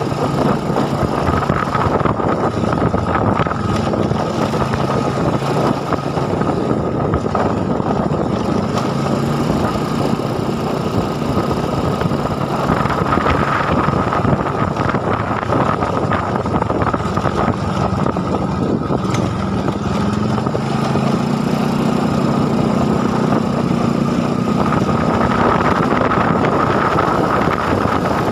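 Small motorcycle engine running while riding, its pitch drifting up and down with speed, with wind rushing over the microphone.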